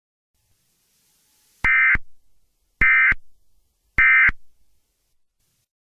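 Emergency Alert System end-of-message signal: three short bursts of warbling SAME data tones, about a second apart, each trailing off in a short echo. It marks the end of the broadcast alert message.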